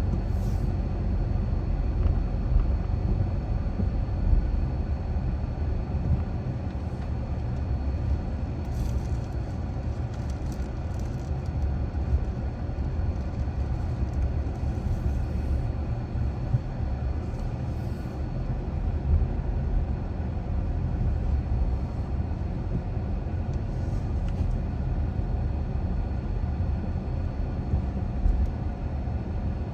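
Steady low rumble of a car driving, with tyre and engine noise.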